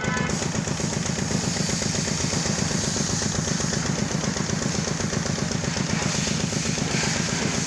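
An engine idling steadily, with a rapid, even pulse.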